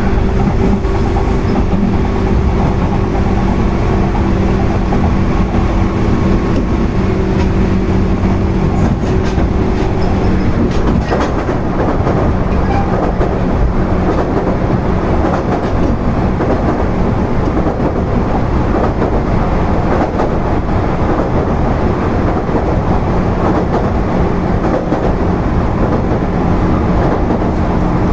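JR 201 series chopper-control electric train running on the line, heard from inside the car: a steady rumble with wheel clicks over the rail joints. A low hum under it fades about ten seconds in and comes back later.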